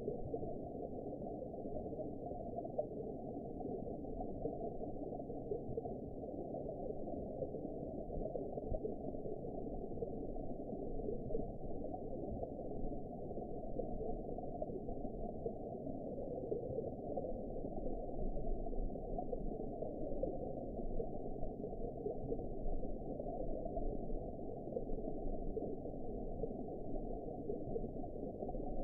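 Steady muffled underwater ambience: a low, even rumble and wash of water with nothing above the low range.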